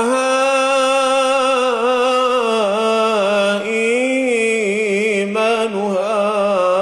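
A male Quran reciter's voice chanting in melodic tajweed style, holding one long ornamented note without a break, its pitch wavering and turning in places.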